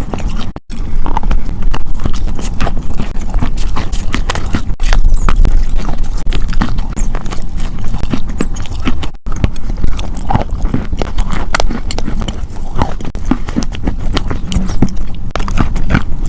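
Close-miked ASMR crunching: something hard being bitten and chewed, in dense, irregular crunches. The sound drops out briefly about half a second in, near five seconds and near nine seconds.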